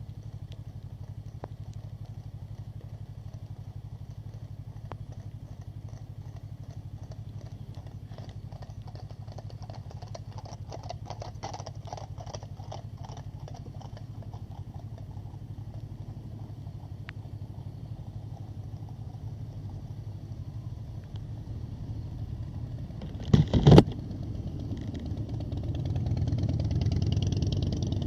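Motorcycle engine running at a steady idle, with a spell of rapid clicking partway through and a sharp double knock about four-fifths of the way in. After the knock the engine comes up in revs and gets louder.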